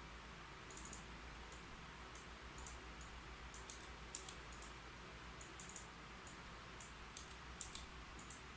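Typing on a keyboard: irregular keystrokes, some in short quick runs and some single, with pauses between, over a faint steady hiss.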